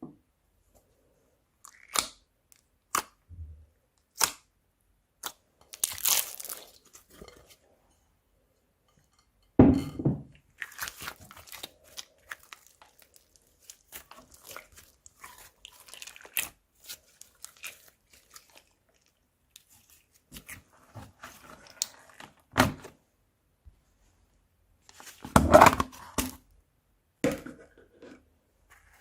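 Crunchy slime being mixed by hand: scattered crisp crunches and crackles with quiet gaps between them. A heavier crunch comes about ten seconds in, and a cluster of loud crunches near the end.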